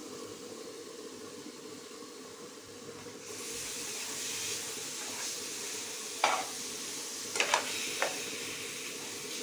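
Masala-coated chicken pieces sizzling in a hot kadai as a flat metal spatula stirs them; the sizzle grows louder about three seconds in, once the stirring starts, with a few sharp knocks of the spatula against the pan near the end.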